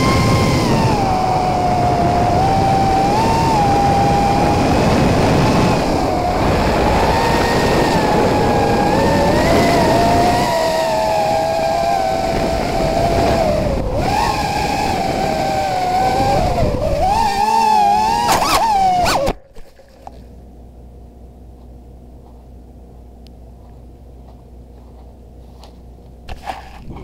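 Racing quadcopter's electric motors whining, heard from the drone's own onboard camera, the pitch rising and falling with the throttle over a rush of air. The whine stops abruptly about 19 seconds in, leaving a faint low hum.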